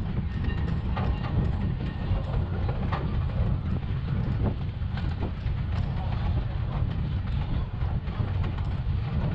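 Narrow-gauge vintage rail car rolling along the track: a steady low rumble with scattered clicks and clatter of the wheels on the rails.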